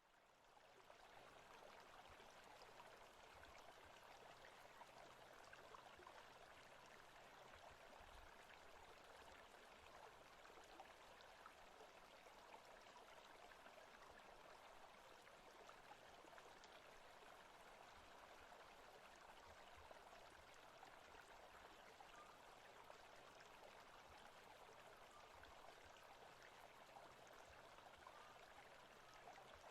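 Faint forest ambience of steadily running water, like a stream, fading in over the first second or so and then holding even.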